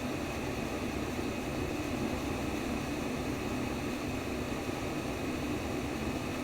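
Continuous sleep white noise: an even, unchanging hiss, heaviest in the low range, with a faint steady tone running through it higher up.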